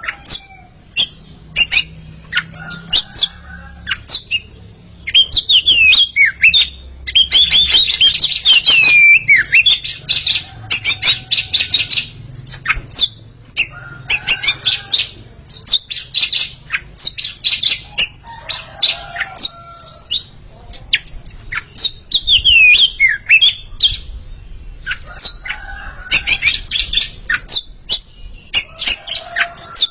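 Oriental magpie-robins singing against each other: fast, varied runs of whistles, chirps and harsh notes, in loud bursts with short pauses between.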